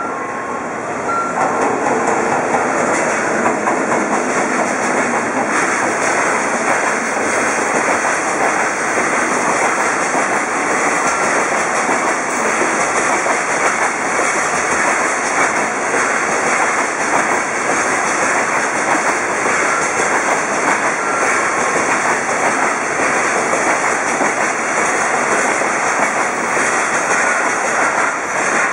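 A JR Freight EF210 electric locomotive hauling a long container freight train runs past. The rolling noise of the wheels on the rails grows louder a second or two in, then stays steady as the container flatcars go by.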